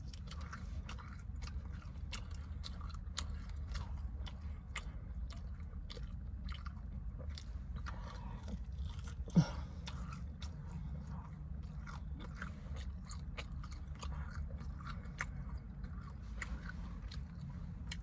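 Close-up chewing and crunching of fried chicken wings: a run of small wet mouth clicks, over a steady low hum. A brief loud vocal sound comes about halfway through.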